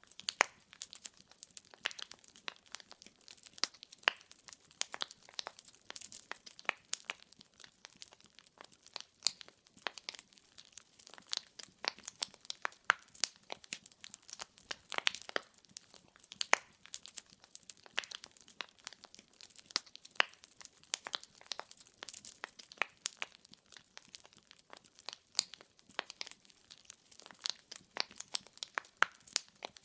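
Firewood logs burning in a fireplace, crackling and popping constantly with many sharp, irregular snaps over a soft hiss.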